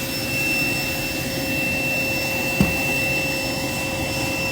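A jet aircraft engine running: a steady rush with a constant high whine. A single sharp click about two and a half seconds in.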